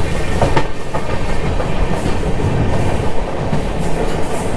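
Passenger train running on the line: a steady rumble of wheels on rails with a clickety-clack clatter over the joints.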